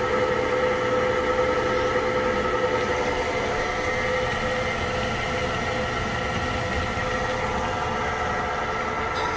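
Microwave oven running with a steady hum and fan whir.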